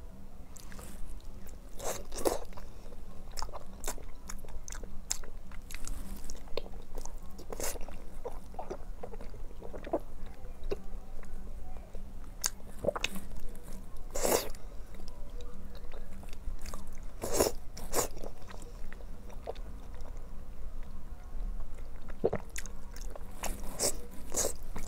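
Close-up mouth sounds of a person eating: biting and chewing soft, pale seafood, with irregular sharp, wet clicks every second or so.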